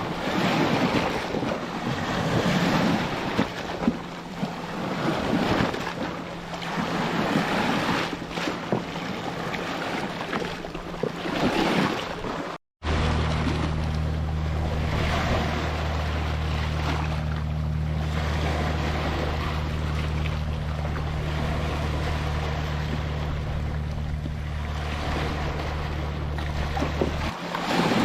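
Ocean surf washing ashore in swells, with wind buffeting the microphone. Partway through the sound cuts out for a split second. After that a steady low hum, like an engine, runs under the surf and stops shortly before the end.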